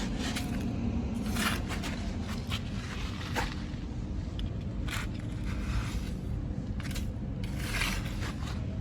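Dirt and gravel being scraped and shifted by RC toy construction vehicles: short, irregular scraping and crunching strokes, about seven or eight of them, over a steady low rumble.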